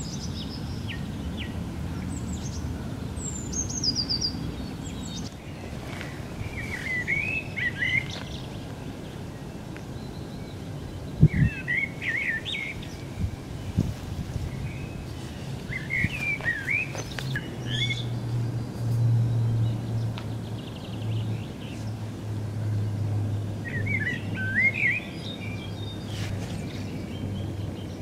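A songbird singing short warbling phrases every few seconds over steady outdoor background noise. A single thump comes near the middle, and a low steady hum sets in about two-thirds of the way through.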